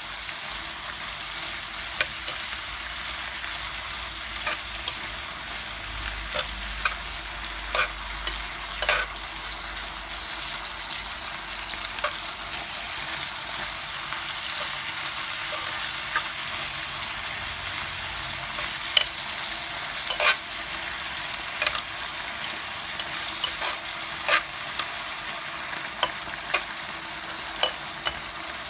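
Chicken and vegetables in teriyaki sauce sizzling steadily in an electric pan while they are stirred and turned with tongs, which click and scrape against the pan every second or two.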